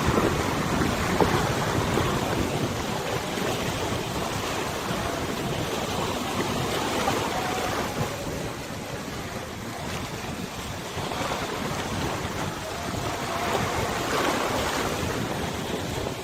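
River water washing and lapping in wind, rising and falling in slow surges, with wind rumbling on the microphone.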